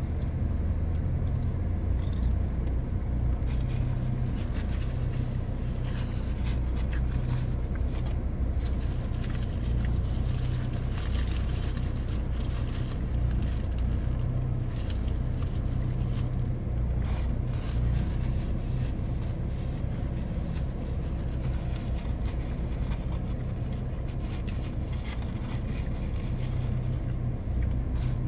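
Steady low hum of a car's idling engine, heard from inside the cabin. Over it come scattered small clicks and rustles from eating and from handling a paper burger wrapper and a napkin.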